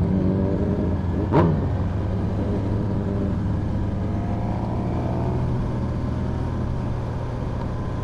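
Suzuki GSX-R 600 sport bike's inline-four engine running steadily at low cruising speed, heard from on the bike. There is a brief louder burst about a second and a half in, and the engine pitch rises slightly in the second half.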